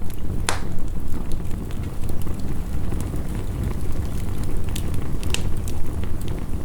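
Wood fire crackling with scattered sharp pops, the loudest about half a second in, over the steady rush of heavy rain.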